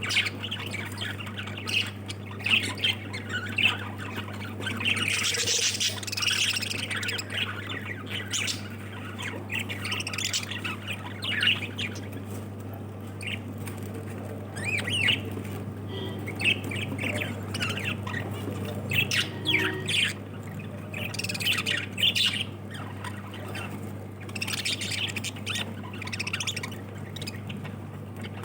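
A group of lovebirds squawking and chattering, with many short, shrill calls crowding one on another, over a steady low hum.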